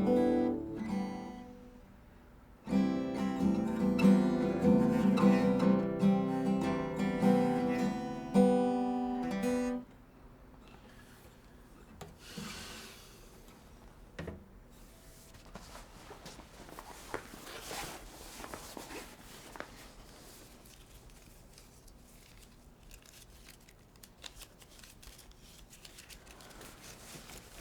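Acoustic guitar playing plucked notes, which cuts off abruptly about ten seconds in. After that only faint rustling and scattered light clicks remain.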